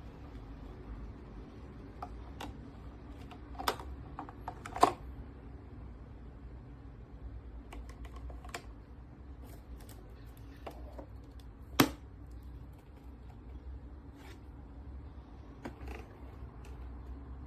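Irregular sharp clicks and taps from objects being handled, a few per second at most, two of them loud (about five and twelve seconds in), over a steady low hum.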